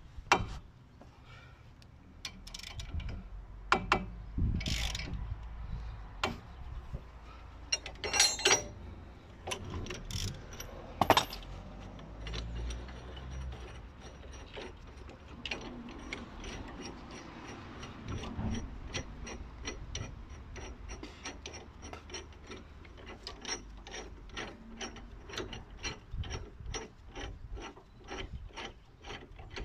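Ratchet wrench clicking in short strokes, turning the screw of a bearing press tool to draw a new front wheel bearing into the knuckle a little at a time. A few scattered sharp knocks of metal tools come first, then the clicking settles into an even run of about two to three clicks a second.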